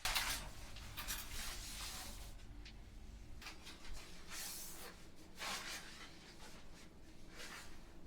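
Hand cleaning of a bathroom: about two seconds of continuous scratchy, hissing noise, then four short bursts of the same kind spaced a second or two apart.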